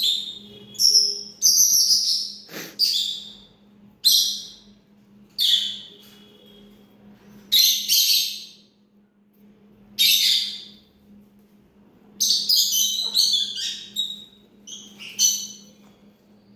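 A parrot chirping, a run of short, high calls coming every second or two, some in quick clusters.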